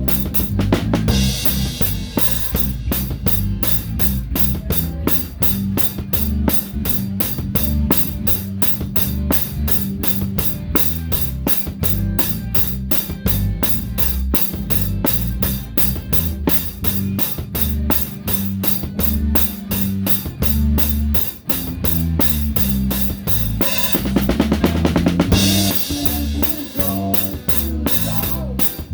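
Live rock band playing an instrumental passage, led by a drum kit up close: a steady, fast cymbal pattern over bass drum and a towel-damped snare, with a bass line underneath. A crash cymbal splashes about a second in and again near the end.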